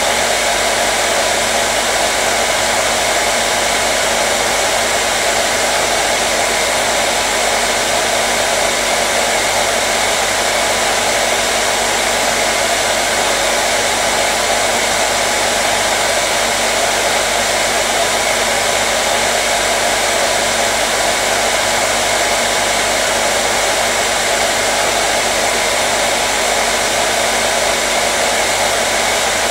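Hair dryer running steadily: an unchanging rush of blown air with a faint motor hum, used as white noise to calm a colicky baby.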